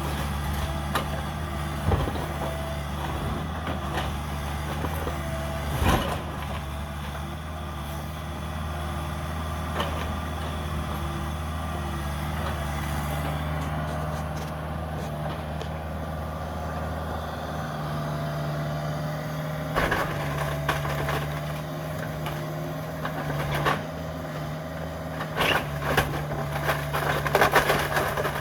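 Cat 305 compact excavator's diesel engine running steadily, with a few sharp knocks and a busier stretch of crunching and clattering near the end as debris is broken.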